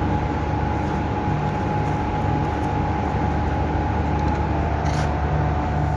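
A motor running steadily, a constant low hum with a steady higher tone over it.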